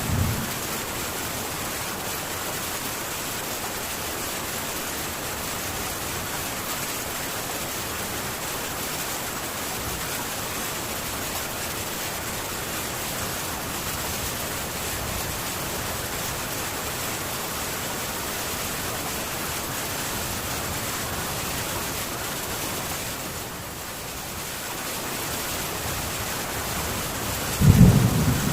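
Heavy rain falling steadily on a metal tin roof, an even hiss with a slight easing past the middle. Thunder rumbles in near the end.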